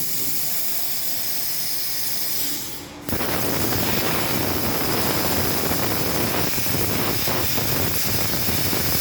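CNC plasma cutter torch: compressed air hissing, then about three seconds in the arc strikes and the cut runs with a loud, steady, harsh rushing noise.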